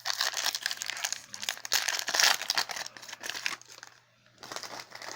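Crinkling rustle of trading cards and their foil pack packaging being handled. It comes in two spells: a longer one, loudest about two seconds in, and after a brief pause near four seconds, a shorter one.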